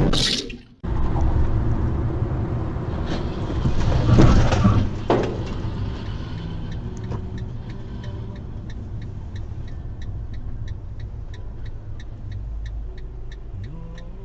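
Vehicle noise heard from a dashcam: a steady low rumble that swells briefly about four seconds in, then a regular ticking about twice a second over the rumble.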